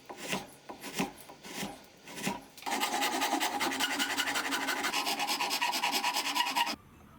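Hand filing: a few separate scraping strokes, then a run of fast, even strokes that cuts off abruptly near the end.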